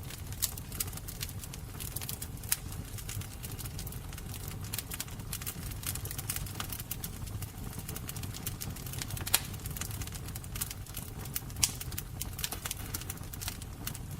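Wood fire crackling: irregular sharp pops and snaps over a steady low rumble of the flames, with a few louder pops about nine and about eleven and a half seconds in.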